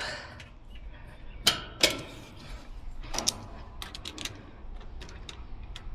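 Scattered small metallic clicks and taps as caps or fittings are taken off an air conditioner's refrigerant service ports by hand: two sharp clicks about a second and a half in, then a cluster of lighter ticks a little past the middle.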